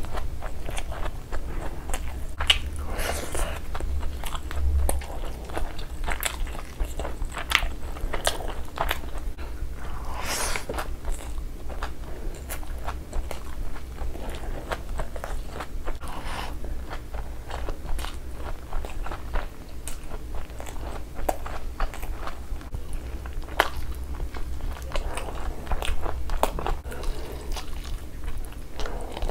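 Close-miked eating: a person chewing mouthfuls of rice and saucy chicken eaten by hand. The chewing is steady and irregular, with many small sharp mouth clicks and smacks.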